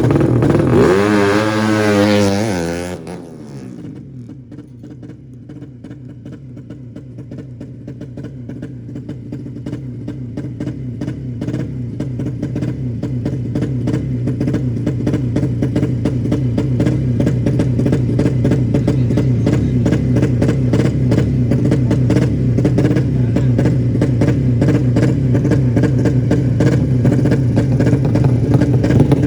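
A 200cc drag-bike engine running at a steady pitch, growing gradually louder. The first few seconds hold a wavering rise and fall in pitch.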